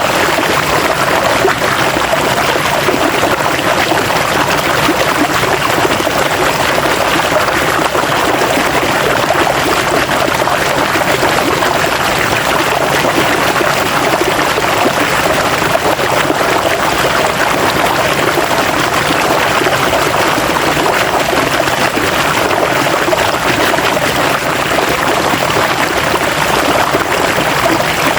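River water flowing over rocks: a steady, unbroken rush and babble.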